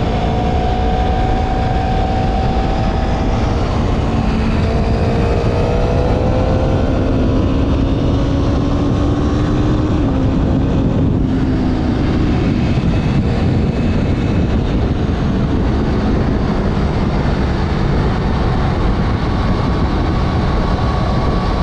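Motorcycle engine running at road speed under heavy wind rush on the microphone. The engine note shifts pitch a few times, as with gear changes or throttle changes, and grows fainter under the wind in the second half.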